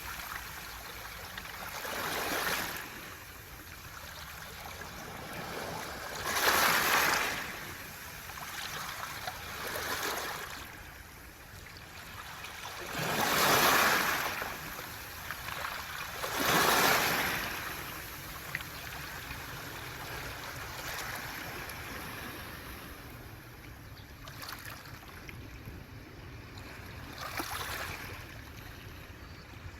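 Waves washing onto a beach of smooth round pebbles (mongdol), each surge hissing up the shore and rattling the stones as it draws back. The surges come every three to four seconds, with weaker ones in the last third.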